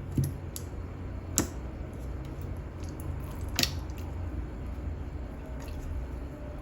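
Thick jelly slime being squished and stretched by hand, with a few sharp wet clicks and pops over a low steady hum.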